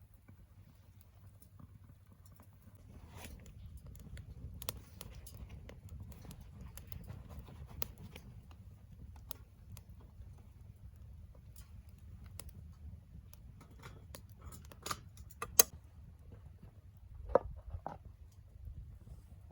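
Wood fire burning in a secondary-combustion wood stove: a steady low rumble with scattered small crackles and pops, and two louder sharp cracks near the end.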